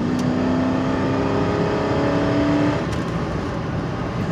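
2003 Cadillac DeVille's 4.6-litre Northstar V8 under hard acceleration, heard inside the cabin: the engine note climbs steadily in pitch for nearly three seconds, then falls away into engine and road noise.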